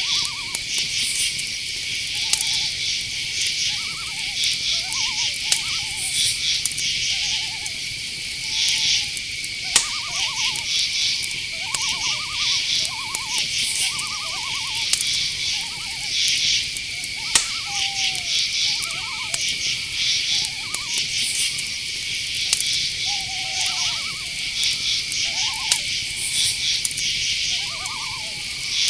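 Night-forest chorus: a steady cricket trill with pulsed insect chirping above it. Short rising-and-falling calls sound over it, irregularly, about once a second.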